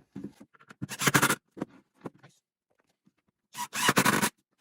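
Scraping and scratching on 2x4 lumber: two louder scraping bursts, one about a second in and a longer one near the end, with a few faint scrapes and knocks between.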